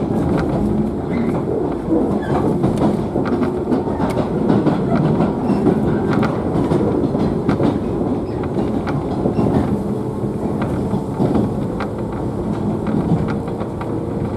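Interior of a JNR 113 series electric train's motor car running along the line: a steady rumble and hum from the traction motors and gears, with irregular clicks and clacks of the wheels over the track.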